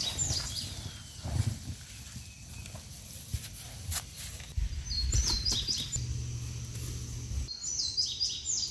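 A small songbird chirping in short clusters of quick falling notes, three times, over a low uneven rumble and a few faint clicks.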